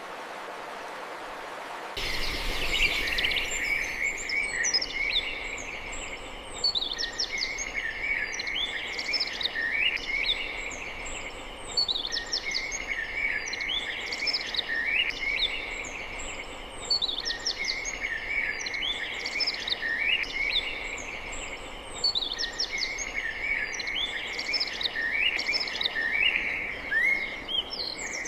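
Birdsong: a songbird repeats a high chattering phrase roughly every five seconds over a steady background hiss. The first two seconds hold the hiss alone.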